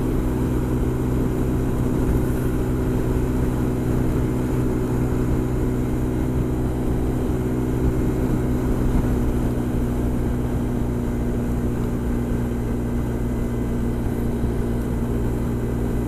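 Honda SH 300i scooter's single-cylinder engine droning at a steady motorway cruise, its pitch holding level, with wind rumble on the microphone.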